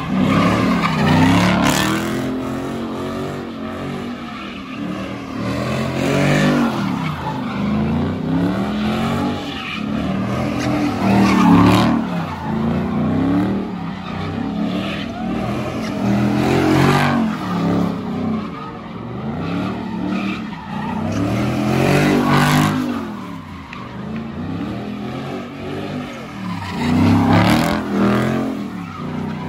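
Car engines revving up and down over and over, about every two to three seconds, with tyres skidding, as in burnouts and donuts at a street takeover.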